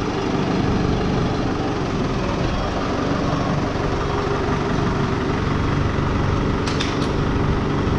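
An engine running steadily at idle, with two sharp metallic clicks close together about seven seconds in.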